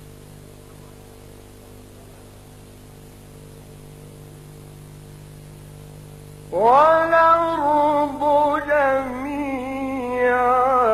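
A low, steady electrical hum, then about six and a half seconds in, a man's voice enters on a long, drawn-out melodic note of mujawwad Quran recitation, held with ornamented turns.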